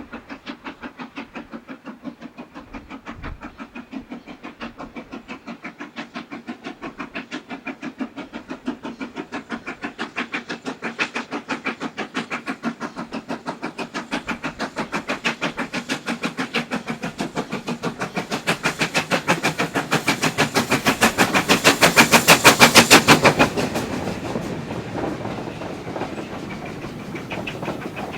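Steam locomotive working hard as it approaches, its exhaust beating steadily at about three beats a second and growing louder. It is loudest about three-quarters of the way through as it passes, then gives way to a more even rumble of the train going by.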